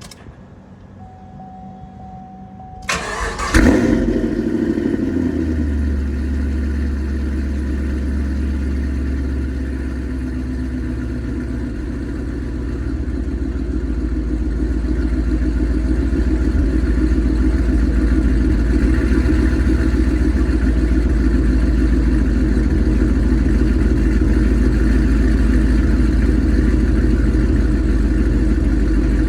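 Chevrolet Camaro ZL1's supercharged 6.2-litre V8 being cranked and starting about three seconds in, flaring loudly as it catches, then settling into a steady deep idle that grows somewhat louder in the second half.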